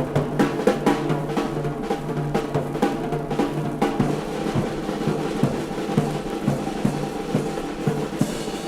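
Drum kit solo in a dance-band number: rapid snare rolls and bass-drum strokes, over a held low note that drops out about four seconds in.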